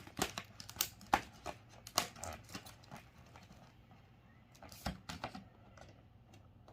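Light, irregular clicks and taps as LED tester probes are handled and touched to the test points of a TV's LED backlight strip. The clicks come thickly in the first three seconds, with a few more about five seconds in.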